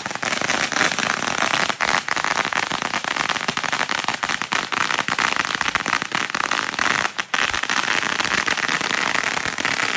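Fireworks crackling: a dense, unbroken rattle of rapid small pops, like a string of firecrackers going off, that keeps up throughout and stops just after the end.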